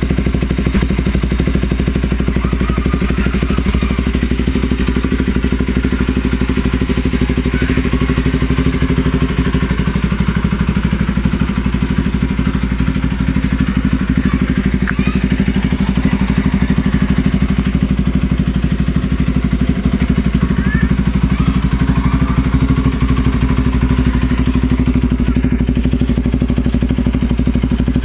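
Bajaj Pulsar RS200's single-cylinder engine idling steadily after a cold start, with an even note that neither rises nor falls.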